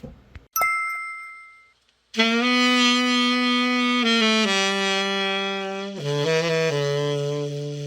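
H.Couf Superba I tenor saxophone, freshly overhauled, played as a test: a few long, low notes stepping downward, the last held about three seconds. Just before it, about half a second in, a short bright ringing tone sounds and fades.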